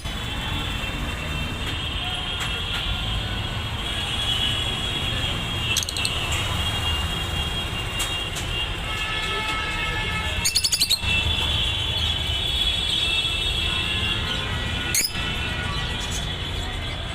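Small birds chirping and chattering continuously, many high calls overlapping. Short bursts of rapid clicks come in a few times, and there is a steady low rumble underneath.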